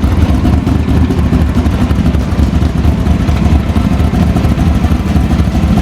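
A car engine running steadily at idle, with a loud low exhaust rumble pulsing quickly and evenly.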